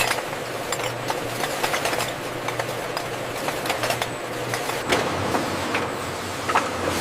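Glass jar conveyor line running: a steady machine hum with frequent, irregular light clinks.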